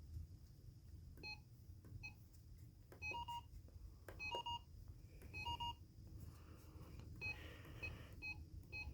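Faint, short electronic beeps from weather alert radios, sounding irregularly about once a second, with a few quick double beeps in the middle.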